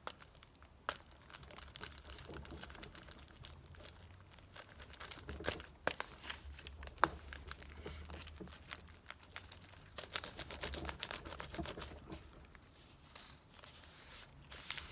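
Paper rustling and crinkling as cut-out pictures are handled and laid onto a notebook page, with scattered light taps and clicks, one sharp click about halfway through.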